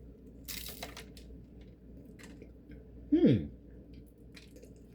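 A bite into flaky Turkish baklava gives a short crunch about half a second in, followed by quiet chewing. A little after three seconds a man's voice makes a brief falling "mm" of approval, the loudest sound here.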